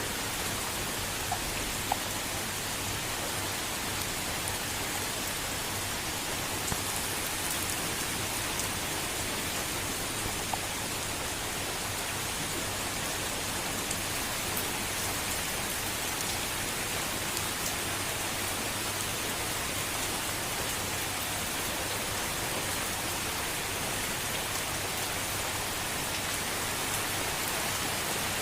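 Steady gentle rain hissing, with a few faint separate drop ticks now and then.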